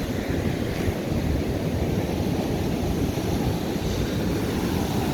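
Ocean surf washing up the beach, a steady rush, with wind buffeting the microphone.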